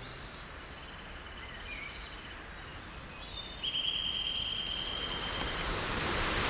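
Quiet outdoor woodland ambience with a few small birds chirping and a steady buzzy trill of about two seconds from about halfway through; a rushing noise swells near the end.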